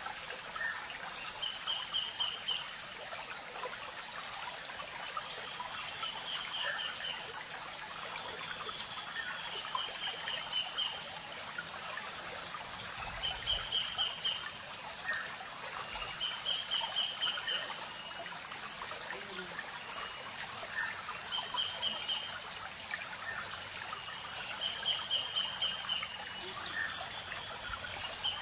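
Small forest stream trickling steadily over stones. Birds call throughout: a short rapid trill repeated every couple of seconds, and brief higher whistled notes.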